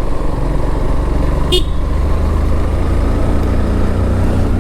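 Motorcycle engine running under way, with steady wind and road rumble on a helmet camera. A brief high-pitched toot sounds about one and a half seconds in.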